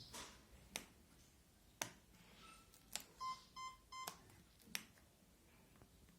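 Several sharp clicks, and about three seconds in, three short identical electronic beeps at one pitch in quick succession, over near silence.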